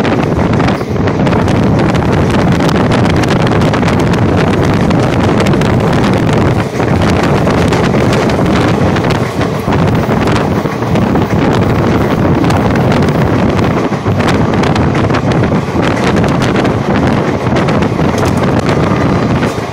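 Passenger train running at speed, heard from an open coach window: a steady loud rumble of wheels on rails with many small clicks, and wind buffeting the microphone.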